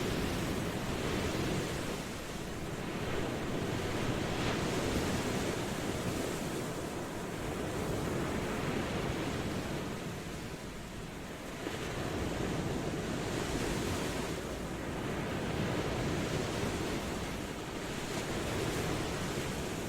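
Ocean waves washing ashore in a steady rushing surf. The sound swells and eases every few seconds, with softer lulls between the larger waves.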